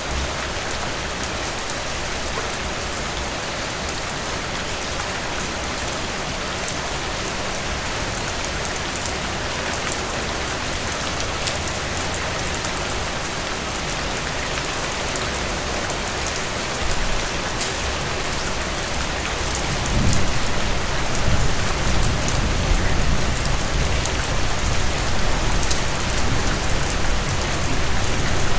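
Steady rainfall: a dense hiss of rain with small drop ticks through it. From about twenty seconds in, a low rumble comes in underneath and the whole sound grows louder.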